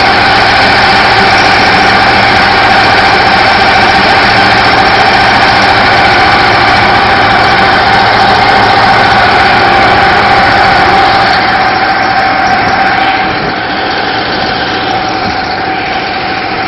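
Lifan 2V77F V-twin four-stroke petrol engine running steadily on a boat, driving a reduction gearbox. It gets somewhat quieter about thirteen seconds in.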